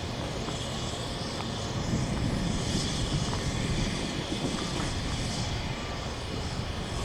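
Steady low engine rumble, swelling a little about two seconds in and easing off again after about four seconds.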